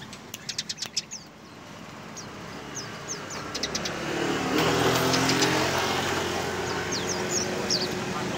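A motor vehicle passes, its engine growing louder from about three seconds in and staying loud to the end, while Eurasian tree sparrows keep chirping over it; a quick run of sparrow chirps comes in the first second.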